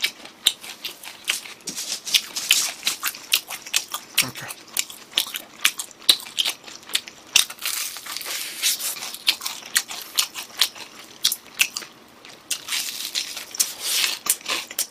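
Crispy fried chicken being bitten and chewed close to the microphone: a continuous run of sharp crunches.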